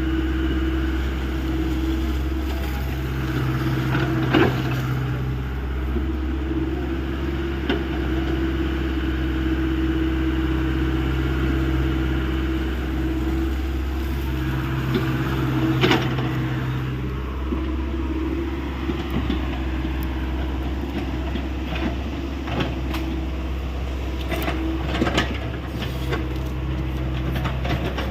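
Hyundai 85 excavator's diesel engine running steadily while digging. A deeper hum comes in for a few seconds at a time as the engine takes load, and a few sharp knocks stand out, the loudest about four, sixteen and twenty-five seconds in.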